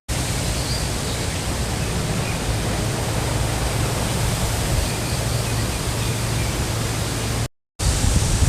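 Cold wind blowing, a steady rushing noise with a low rumble of wind buffeting the microphone; it breaks off for a fraction of a second near the end.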